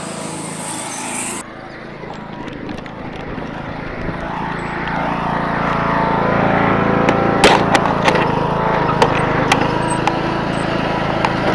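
A car engine running steadily as it tows a rider on a board, growing louder from about four seconds in, with sharp clicks and knocks in the second half.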